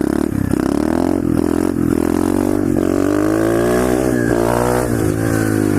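125cc SSR pit bike's single-cylinder four-stroke engine running under way, its pitch rising and falling with the throttle, climbing and dropping back in the middle.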